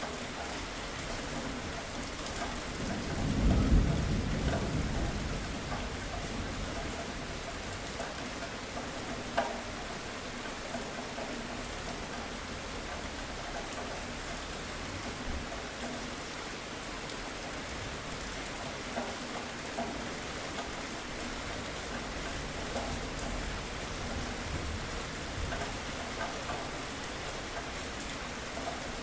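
Steady rainstorm: continuous rain with a low roll of thunder swelling and fading about three to five seconds in.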